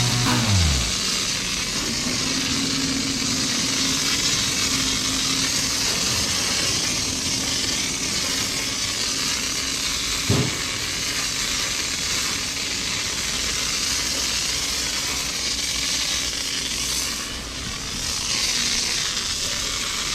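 Steady rushing noise of a motorcycle on the move, mostly wind and road rush with a faint engine hum underneath. A brief sharp sound about halfway through.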